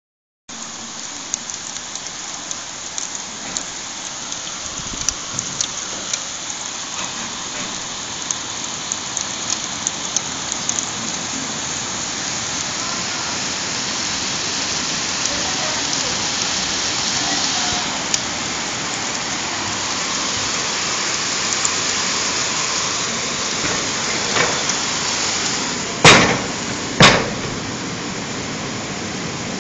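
Steady rain falling, with drops ticking sharply in the first half and the downpour growing heavier. Near the end, two loud sharp bangs come about a second apart.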